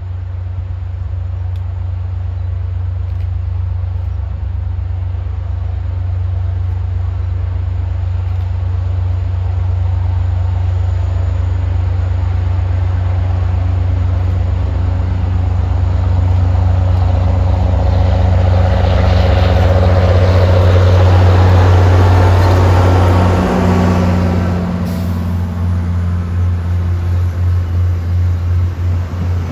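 MBTA commuter rail diesel locomotive approaching and passing close by, its engine drone building to its loudest about three-quarters of the way in. The passenger coaches then roll past with a rhythmic clatter of wheels over the rail joints.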